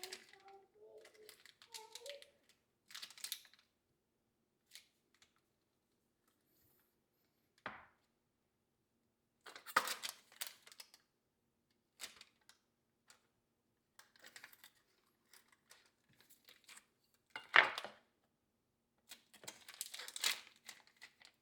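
Rustling, crinkling and light knocks of food preparation by hand, in short irregular bouts with the loudest clatters about ten, seventeen and twenty seconds in, over a faint steady hum.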